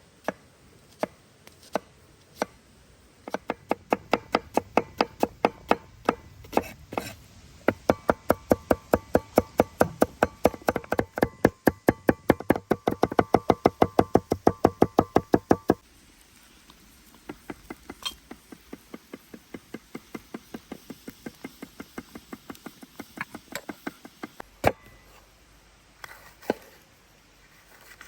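Knife chopping food on a cutting board in quick, even strokes, about four or five a second at the busiest and loudest stretch in the middle. The strokes then go lighter, with one sharper knock near the end.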